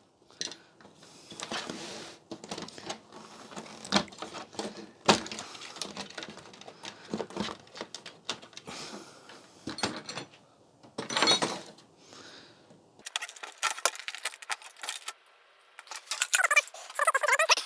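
Irregular clicks, knocks, rattles and scrapes of plastic and metal parts being handled as the back cover of a large flat-screen TV is worked off.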